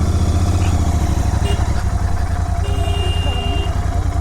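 Motorcycle on the move: a loud, steady low rumble of engine and road noise.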